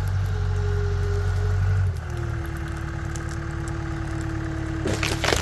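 A CAT 252B skid steer's diesel engine runs under load with a whine from the hydraulics. About two seconds in, the engine note and the whine drop to a lower, quieter pitch as the load comes off. A few sharp cracks come near the end.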